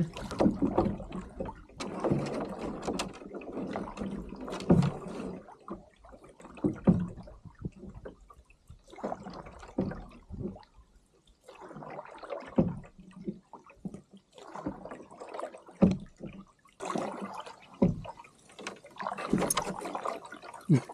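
Canoe paddle strokes in lake water: the paddle dipping and pulling with small splashes and drips, coming irregularly every couple of seconds.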